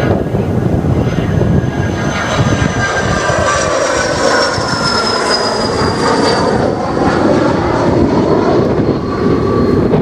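Jet airliner's engines passing, a steady loud rush with a high turbine whine that slowly falls in pitch. Wind on the microphone.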